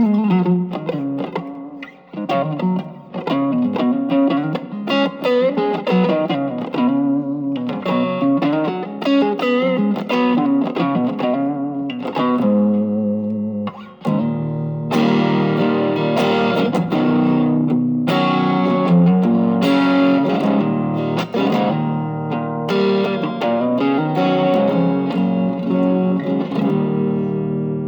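Electric guitar played through an Ibanez TS808 Tube Screamer overdrive pedal set as a clean boost, giving a lightly driven tone. Picked notes and phrases give way, about fifteen seconds in, to fuller, more sustained chords.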